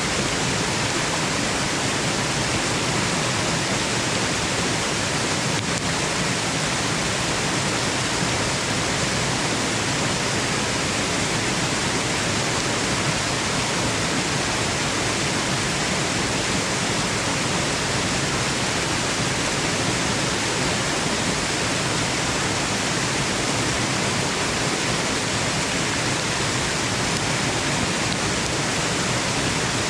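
Waterfall rushing: a steady, unbroken wash of falling water, even in level throughout.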